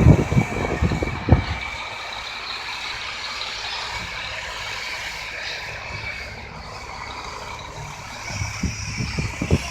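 Sanitation snow-clearing truck working the street, its engine running steadily, with loud clattering and knocking in the first second or so and again near the end.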